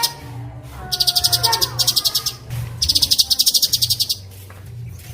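Songbird song from a masteran training recording: clear whistled notes broken by very fast, high rolling trills, twice for about a second each, with a low steady hum underneath.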